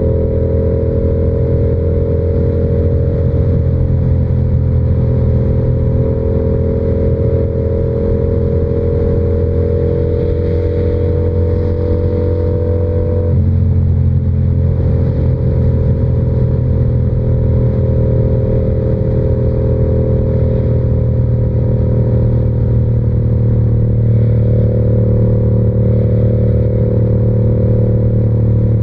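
Yamaha R7's 689 cc parallel-twin engine running under steady riding load, its note creeping slowly upward. About halfway through the note changes abruptly, then runs on steady and slightly louder.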